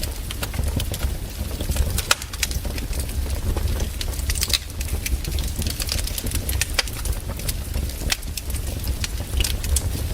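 Fire in a fireplace crackling, with frequent irregular sharp pops over a low steady rumble.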